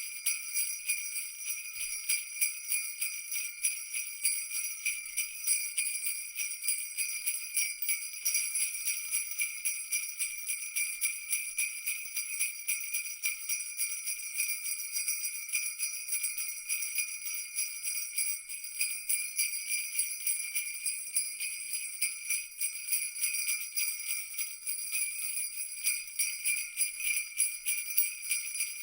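Jingle bells shaken continuously in a fast, uneven jingle that never stops, their bright ringing held on a few steady high pitches.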